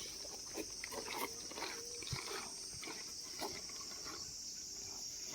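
Steady high-pitched drone of insects, with scattered light clicks and scrapes of bicycle parts being handled.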